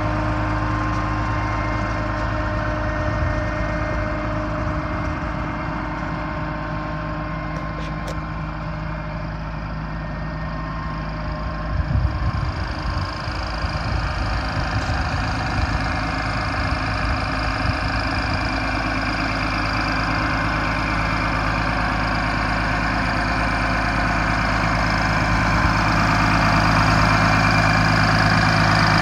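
Case IH MX270 tractor's diesel engine running steadily at idle, a little rougher for a few seconds around the middle and getting somewhat louder near the end.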